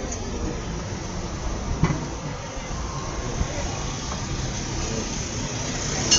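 Steady background rumble of road traffic, with a sharp knock about two seconds in and another near the end.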